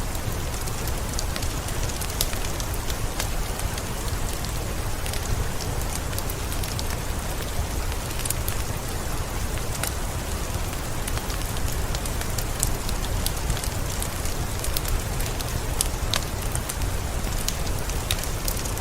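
Heavy rain falling steadily, with many sharp individual drop hits over a dense hiss and a low rumble underneath.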